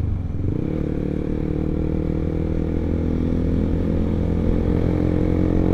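Honda CBR150R's single-cylinder engine, breathing through an R9 aftermarket exhaust, running steadily at low, even revs.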